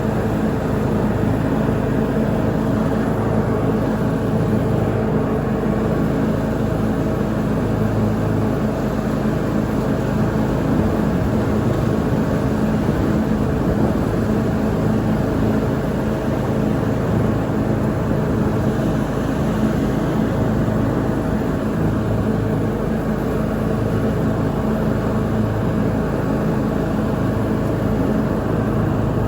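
Lawn mower engine running steadily at an even pitch while mowing.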